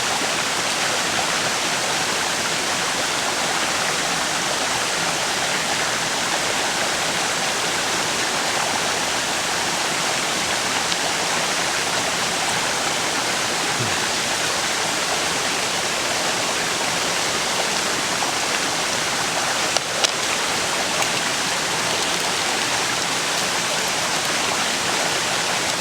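A river flowing by, a steady rush of water. Two brief clicks come about three-quarters of the way through.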